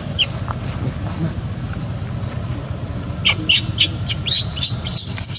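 Birds chirping in quick short high notes, starting about three seconds in and growing denser near the end, over a steady low rumble.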